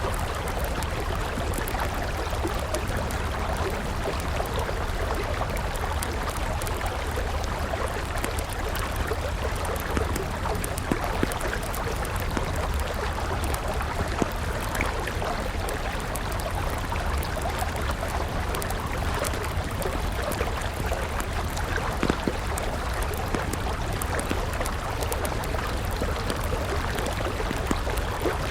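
River water flowing steadily, with a wood campfire crackling over it in scattered small pops and a few louder snaps.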